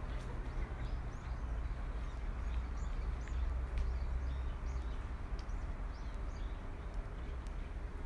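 Small birds chirping repeatedly in short high calls over a steady low rumble, with a few faint clicks.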